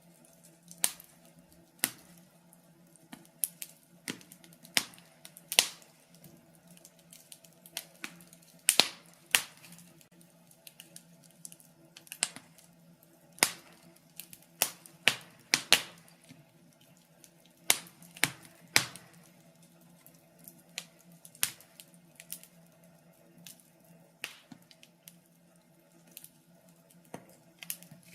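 Wood fire burning in a fireplace, crackling with sharp, irregular pops, sometimes several close together, over a faint steady low hum.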